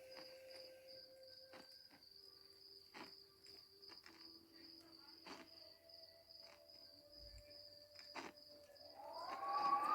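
Spooky sound-effects track: a steady, faint, high cricket chirring with scattered soft clicks and low drawn-out tones. Near the end a wavering, howl-like animal cry rises in.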